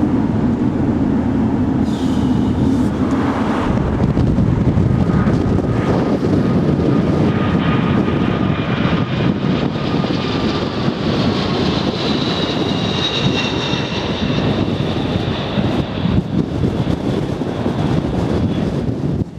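Boeing 747's Rolls-Royce RB211 jet engines running loud and steady, heard close by. High whines sit over the noise, and one whine falls slowly in pitch through the middle.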